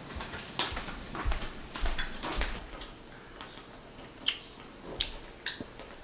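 Irregular light taps and clicks of kitchen utensils and dishes being handled while cottage cheese pancakes are made, busiest in the first few seconds, with one sharper tap about four seconds in.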